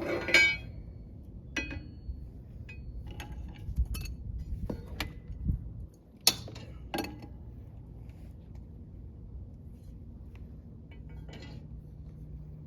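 Metal tools and parts clinking and clanking: a loud ringing clank about half a second in, then scattered sharp clicks and knocks, the sound of hand tools working on truck brake hardware.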